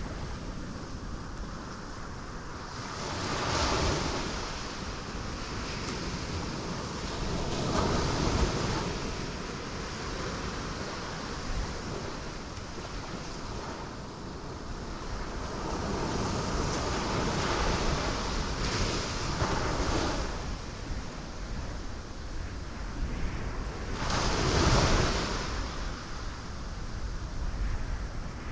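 Ocean waves crashing on rocks, surging every few seconds over a steady wash of surf, with the biggest wave breaking near the end.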